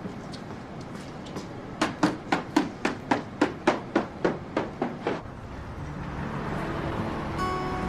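A quick, even run of about a dozen sharp knocks, roughly four a second. Near the end, soft background music with plucked guitar notes comes in.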